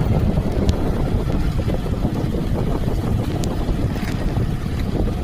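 Wind buffeting the microphone: a steady, loud low rumble with a few faint ticks.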